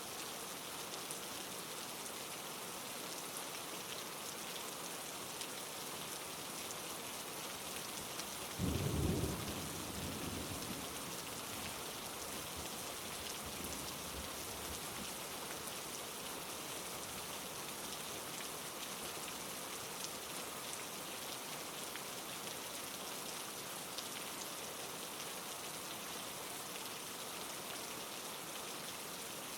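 Steady rain falling, with a single roll of thunder about eight seconds in that breaks suddenly and rumbles away over a few seconds.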